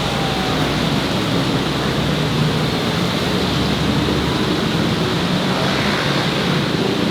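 Steady noise of busy city street traffic, with engine hum and tyre rush blending into a continuous wash.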